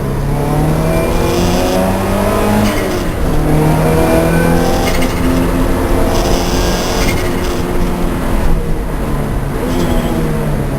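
Lancia Delta race car engine accelerating hard, its pitch climbing and then dropping at each upshift, several times in a row.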